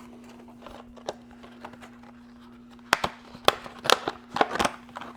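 Small packaging and kit parts being handled: a quick series of sharp clicks and crinkling in the last two seconds, over a steady low hum.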